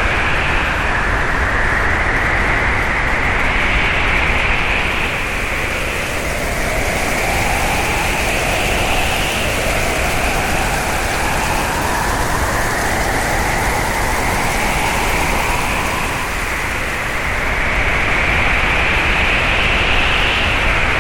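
Hurricane-force wind blowing steadily, with a whistling pitch that slowly rises and falls over several seconds.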